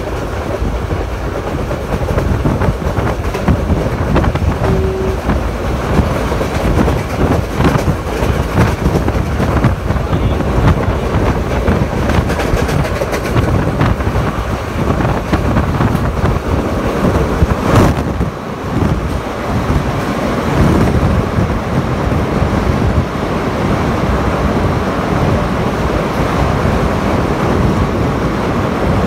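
Passenger train running at speed, heard from beside an open window: wheels clicking over the rails under a steady rush of wind. Near the end the sound turns to a more even rush as the train enters a tunnel.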